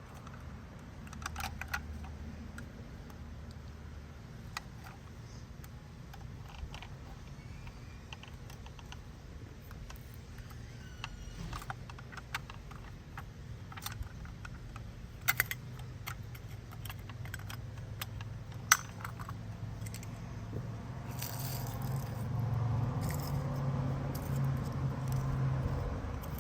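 Toy garbage truck being handled and played with: scattered plastic clicks and rattles of its parts. A low hum grows louder in the last few seconds.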